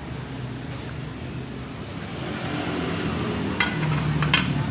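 An engine runs steadily with a low hum that grows slightly louder about halfway through. Two sharp metallic clinks come near the end.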